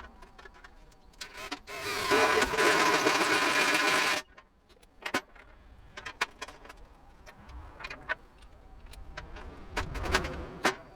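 A small electric power tool runs for about two seconds, starting about two seconds in and stopping abruptly. Scattered clicks and knocks of handling come before and after it.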